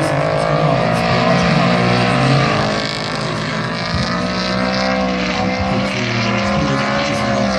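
Two drift cars sliding in tandem, their engines held at high revs. The note wavers up and down slowly and does not stop.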